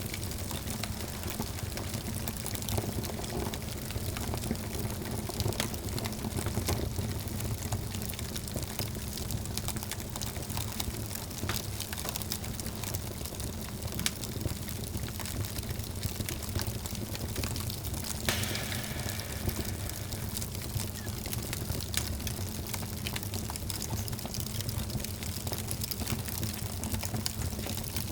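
Wood fire burning in a fireplace: a steady low rumble of flames with frequent sharp crackles and pops, one louder pop about two-thirds of the way through.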